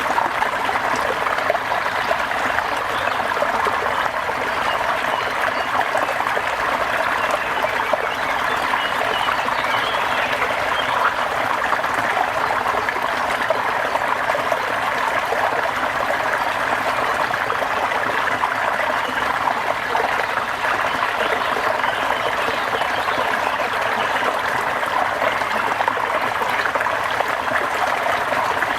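Steady rain with trickling water, a dense, even patter that does not change.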